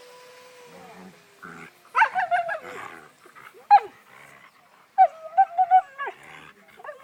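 Sled dogs whining and yowling as they play: a faint drawn-out whine at the start, a loud pitched cry about two seconds in, a short sharp yelp, then a wavering whine near the end.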